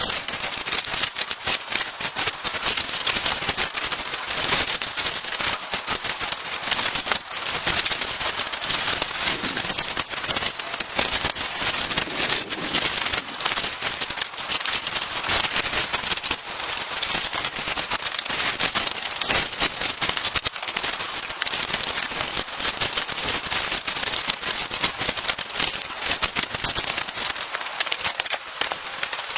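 Dense, continuous crackling: many sharp pops and clicks in quick, irregular succession, with no let-up.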